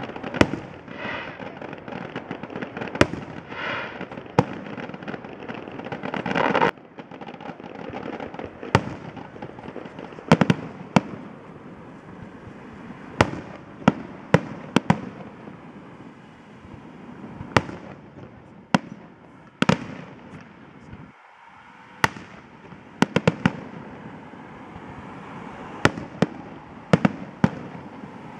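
A fireworks display with shells bursting in quick succession: sharp bangs every second or so, often in close pairs or clusters, over a steady crackling haze. A swelling noise builds through the first seven seconds and cuts off suddenly.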